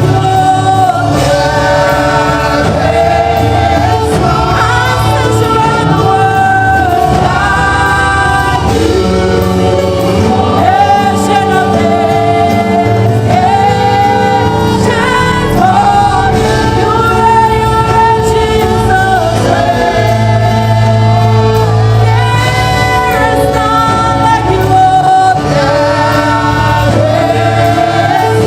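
Gospel music: a choir singing with instrumental backing and a steady bass line.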